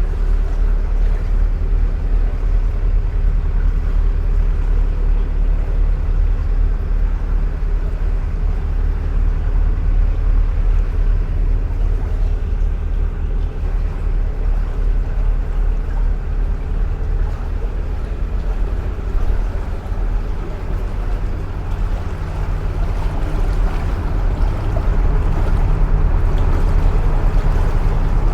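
Narrowboat engine running steadily under way, a low continuous hum that eases a little past two-thirds through and picks up again near the end.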